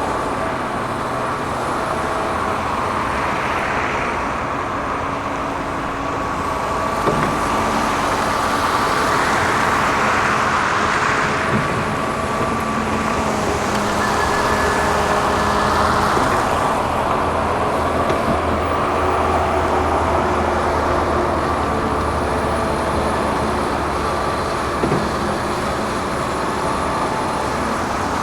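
Excavator diesel engine and hydraulics working under load, with a steady whine; the engine swells and eases every few seconds as the machine works, with a few short knocks.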